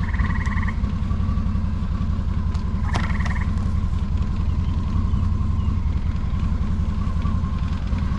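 An engine idling steadily with a low rumble, most likely the Bobcat E42 mini excavator's diesel. A frog gives two short trills over it, once at the start and once about three seconds in.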